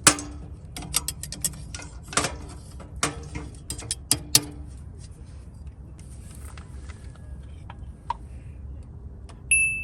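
A quick run of sharp knocks and clattering clicks, as of hard objects being handled and set down, some with a short ring, then a single short high-pitched ping near the end.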